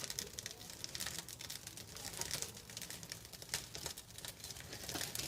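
A freshly lit fire of birch bark and light kindling crackling with irregular small snaps as it catches and starts to flame.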